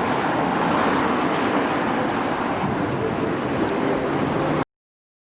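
Train running through the station: a steady rumble and hiss that cuts off abruptly about four and a half seconds in.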